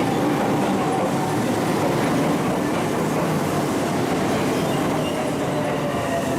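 JR West electric train running past a station platform: a steady rolling rumble of wheels and running gear, with a faint steady whine.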